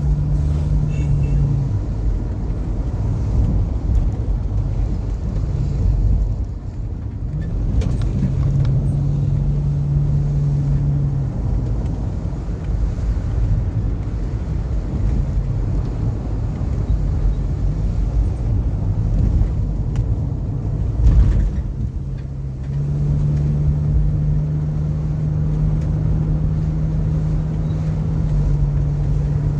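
A car being driven, with steady engine hum and road rumble. The hum fades out twice for several seconds, and there is a brief louder jolt about two-thirds of the way through.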